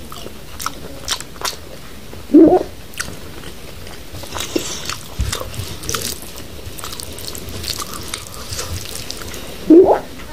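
Close-up eating sounds of a man chewing handfuls of curry-soaked rice with wet, smacking mouth noises and many small clicks. Two brief, loud throaty noises from his mouth stand out, about two seconds in and again near the end.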